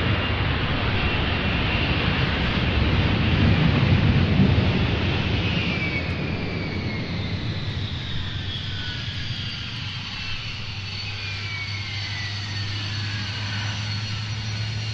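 Jet aircraft passing by: the engine roar builds to a peak about four seconds in, then its turbine whine falls steadily in pitch and fades as the jet moves away. A steady low hum remains underneath.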